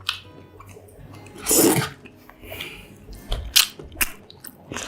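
Close-miked eating sounds: chewing and crunching into a mozzarella corn dog's crispy battered coating. There is a louder noisy burst about a second and a half in, then a run of sharp crunches after about three seconds.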